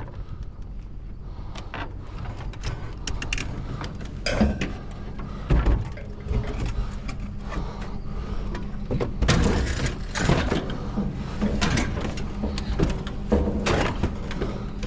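A motor running with a steady low hum, with repeated knocks and clatters over it, the loudest starting about four and a half seconds in and again from about nine seconds in.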